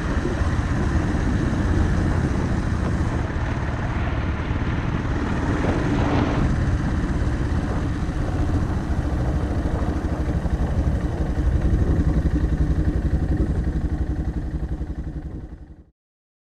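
Yamaha XT660R's single-cylinder engine running, picked up by a microphone inside the rider's helmet, with a steady pulsing thump and noise over it; the sound fades out to silence near the end.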